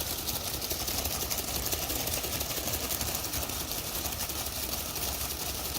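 Small Lego electric motors and plastic gears of a model car wash running steadily, driving the rotating brushes and conveyor: a continuous whir with a fast, fine rattle.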